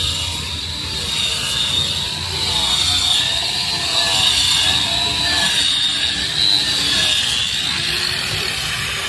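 Several sprint car engines running hard, a loud steady din whose pitch wavers up and down as the cars go round the dirt oval.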